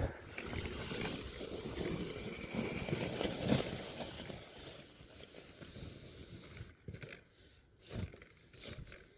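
Snow shovel pushing and scraping through deep, wet snow over gravel: a steady crunching scrape that fades after about five seconds, followed by a few separate short knocks and scrapes.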